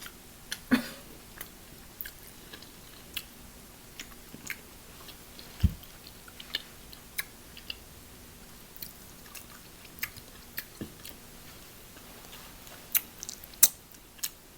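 Close-miked chewing of a stuffed clam: wet mouth clicks and smacks at irregular intervals, with a few louder ones about a second in and near the end.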